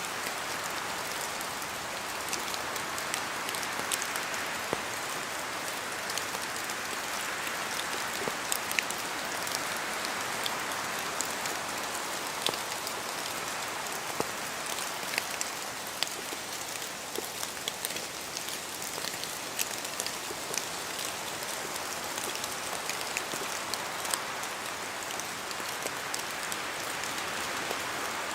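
Steady rain falling in a forest, an even hiss that swells and eases slightly, with many sharp ticks of individual drops dripping from the trees.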